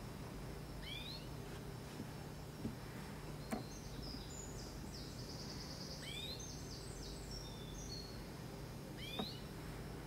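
Small birds calling: short down-slurred call notes come a few times, and a fainter, high twittering series runs through the middle. A steady low hum lies underneath.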